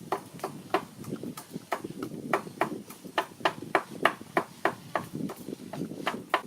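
A knife chopping on a cutting board in a steady rhythm, about three strokes a second.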